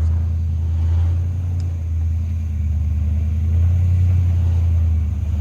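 Off-road 4x4's engine running with a steady, low drone that holds even throughout.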